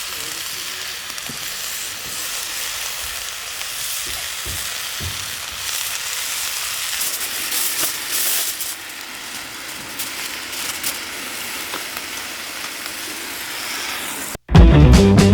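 Steak sizzling in a hot pan over a campfire: a steady hiss with scattered small pops. Loud rock music cuts in abruptly near the end.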